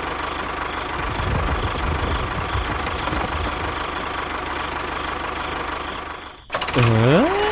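A small engine runs steadily with a low pulsing. About six and a half seconds in it cuts off abruptly, and a louder pitched tone follows that swoops down and then climbs.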